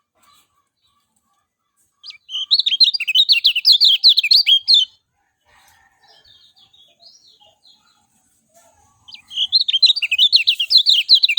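Kecial kuning (yellow white-eye) singing: two bursts of rapid, high twittering notes, each about three seconds long, with softer scattered chips in the gap between them.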